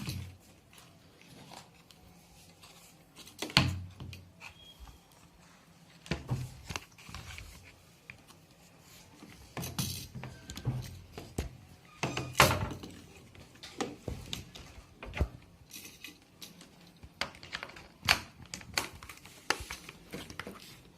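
Scattered clicks, taps and knocks of fridge thermostat parts being handled and fitted back into place, with two louder knocks, one a few seconds in and one about halfway.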